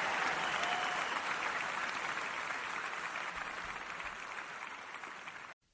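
Audience applauding at the end of a live song, slowly fading out and cutting to silence just before the end.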